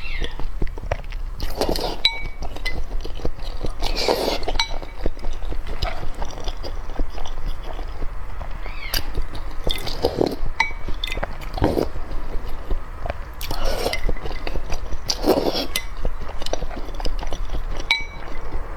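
Eating sounds: repeated light clinks and clicks, like utensils or shells against dishes. A short pitched sound comes every few seconds.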